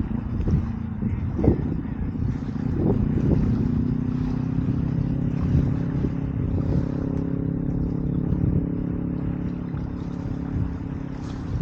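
A motor engine running at a steady pitch, with low gusts of wind buffeting the microphone near the start.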